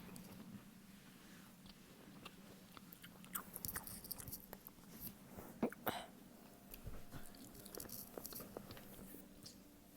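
Close-miked chewing of a Pepperette pepperoni stick: moist mouth sounds and many small sharp clicks, with louder bites about four and six seconds in.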